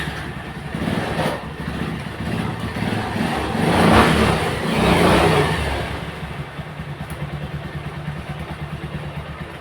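Bajaj Pulsar motorcycle's single-cylinder engine starting up, revved twice in the middle, then settling to an even, pulsing idle.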